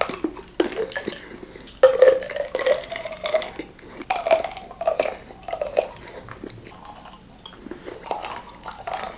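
Close-miked chewing and mouth sounds of someone eating chocolate, with many small clicks and crackles throughout.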